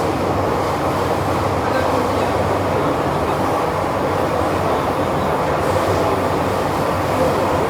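MTR M-train metro car running steadily through the Island Line tunnel, heard from inside the carriage: an even rumble of wheels on rail and running gear.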